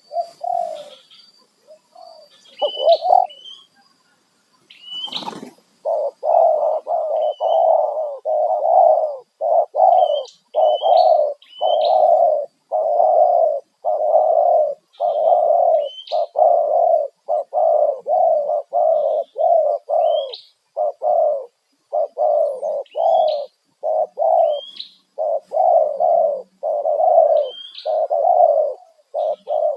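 Spotted dove cooing: a few coos, then from about six seconds in a long, fast run of short, low coo notes, several a second. A smaller bird gives short rising chirps every second or two, and there is one sharp click about five seconds in.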